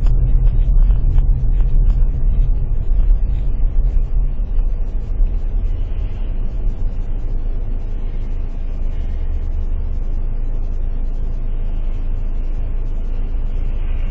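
Car engine and road rumble heard from inside the cabin, low and continuous. It is louder and rougher for the first four or five seconds while the car is moving, then settles into a steadier, slightly quieter drone as the car stands at idle.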